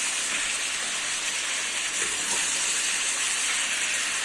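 Beef and onion frying in the pot, a steady, even sizzle.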